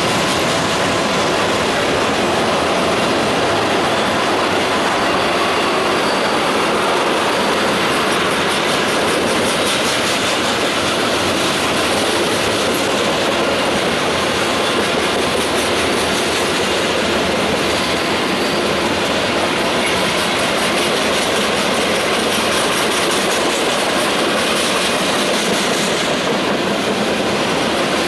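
Freight cars of a long mixed freight train, tank cars and boxcars, rolling past: a steady, loud rumble and rattle of steel wheels on rail that holds level throughout.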